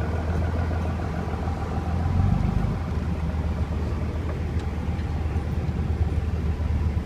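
Heavy diesel engine running steadily, its note swelling briefly about two seconds in as it takes load or revs up, then settling back.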